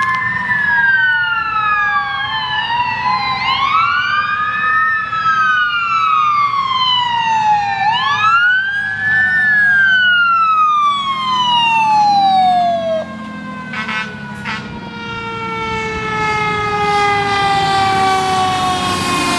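Emergency vehicle siren wailing, sweeping up and down in slow cycles, with its pitch sliding lower as the vehicle passes and moves away. The rumble of traffic runs underneath.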